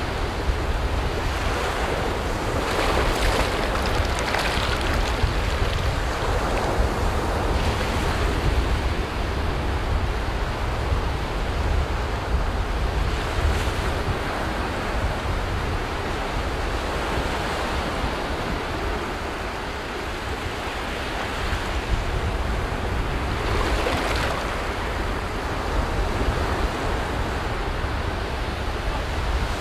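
Sea waves washing onto a beach: continuous surf that swells every few seconds, with a steady low rumble underneath.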